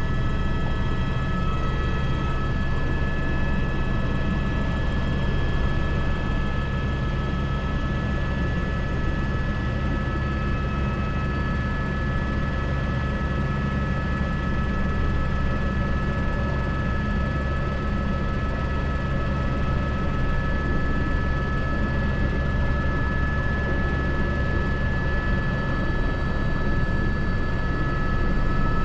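Airbus H125 helicopter in steady flight: an even low drone of rotor and turbine with a steady high whine on top.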